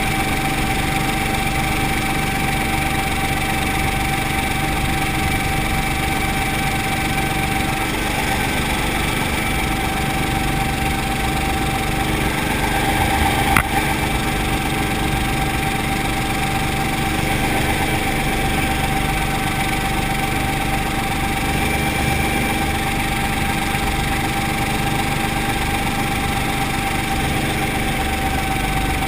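Brantly B-2B helicopter's piston engine and rotor drive running steadily, with a constant whine over the drone. There is one brief click about halfway through.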